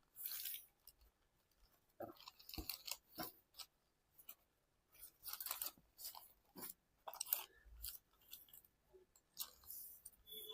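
Sheet of origami paper being folded and pre-creased by hand: faint, irregular crinkles and rustles with short pauses between them.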